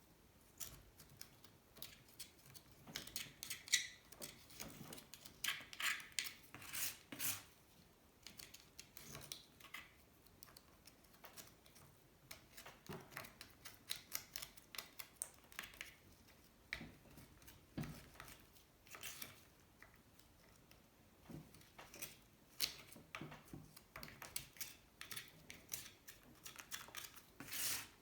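Hand tools scraping and tapping at the sludge-caked aluminium crankcase of a Honda C70 engine: irregular clicks, taps and short scrapes, with a duller knock about two-thirds of the way through.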